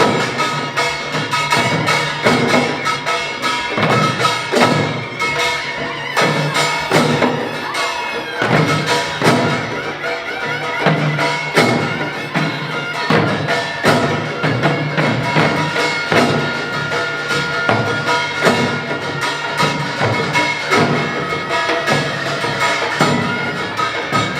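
Korean pungmul ensemble playing: gongs and drums struck in a fast, dense rhythm, with metallic ringing tones held over it.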